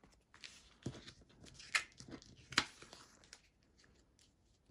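Sheets of paper planner stickers being handled and shuffled: light rustles and a series of sharp paper taps and flicks, the two sharpest about two and a half seconds apart.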